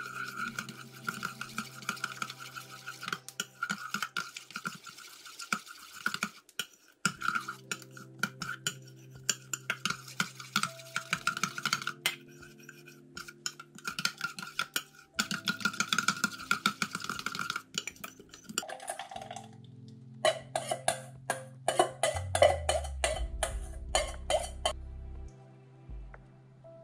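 A spoon stirring and clinking in a dish, many quick scraping taps, over soft background music with held notes.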